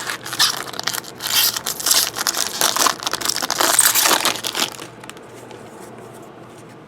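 Crinkly plastic-foil wrapper of a trading-card pack crackling loudly as it is handled and crumpled, for about four and a half seconds, then stopping.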